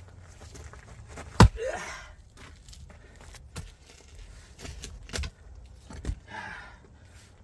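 Firewood being split: one loud, sharp strike about a second and a half in, followed by a short crackle of wood giving way, then several lighter knocks.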